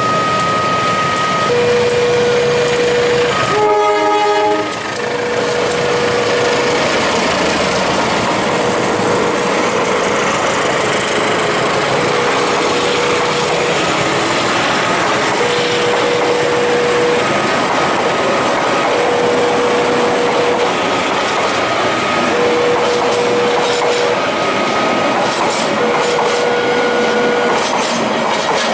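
A level-crossing warning alarm alternates between a low and a high tone, each held for one and a half to two seconds. A diesel-hauled passenger train runs past, and the locomotive's horn sounds briefly about four seconds in. After that the train's running noise fills in, and in the last few seconds the wheels clatter over the rail joints.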